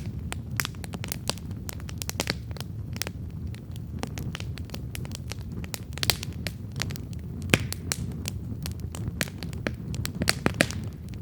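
Campfire of burning wood logs crackling, with frequent irregular sharp pops and snaps over a steady low rumble of the flames.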